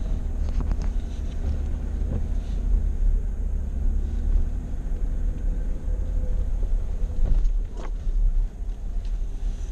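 Vehicle driving over a rough dirt road: a steady low rumble of engine and tyres, with a few brief knocks and rattles from bumps, the loudest about three-quarters of the way through.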